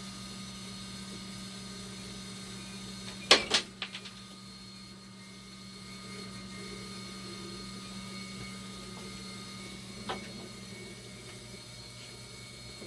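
Dialysis machine running in rinse mode with a steady hum and a faint high steady tone. Its acid and bicarb pumps are running without their earlier fault noise now that the functional board has been replaced. A sharp double click comes about three seconds in, and a lighter click near ten seconds.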